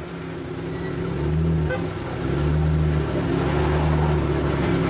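Pagani Zonda's Mercedes-AMG V12 idling just after start-up, its note steady in pitch but swelling louder twice.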